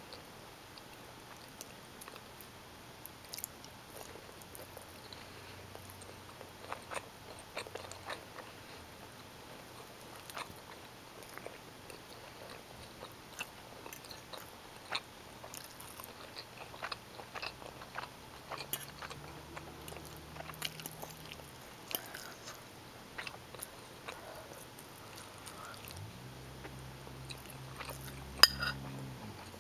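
Close-miked chewing of bowtie pasta in tomato sauce with sausage: wet mouth clicks and smacks scattered throughout, with a sharper click near the end. A low steady hum comes in briefly at the middle and again near the end.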